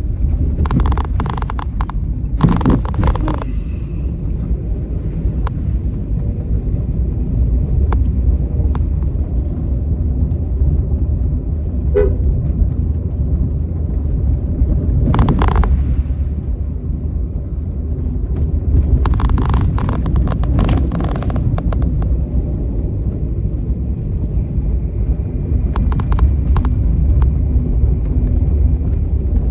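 Stormy outdoor ambience: a steady low rumble of strong wind and traffic, with four short hissing swells like vehicles passing on a wet road.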